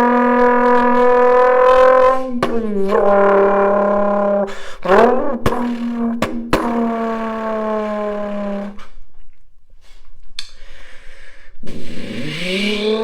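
A person imitating a car engine with their mouth: a held droning engine note that swoops up in pitch twice like gear changes, with a few sharp clicks, dies away, then starts rising again like revving near the end.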